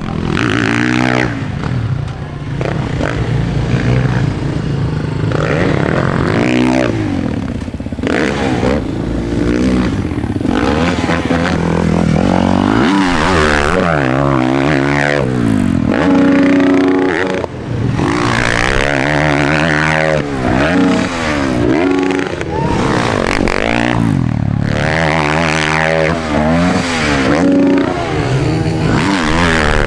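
Dirt bike engines revving, the pitch climbing and dropping again and again as the throttle is worked on and off.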